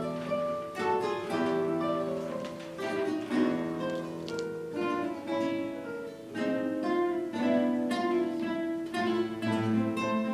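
A guitar ensemble playing together: many acoustic guitars plucking a melody over sustained chords and a bass line.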